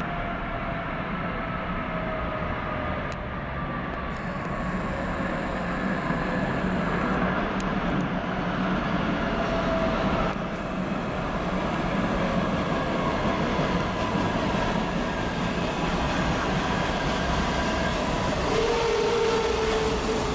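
Alstom/Budd PATCO III rapid-transit train pulling into the station, its wheels rumbling on the rails under a whine whose tones slide slowly down as it slows. A steady higher tone comes in near the end.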